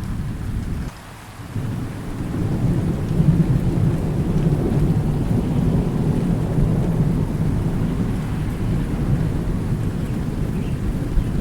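Thunder rumbling low and rolling with steady rain. The sound dips briefly about a second in, then the rumble swells and rolls on.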